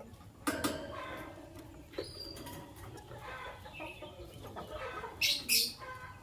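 Lovebirds chattering in quick, scratchy calls, with two loud shrill shrieks a little after five seconds in.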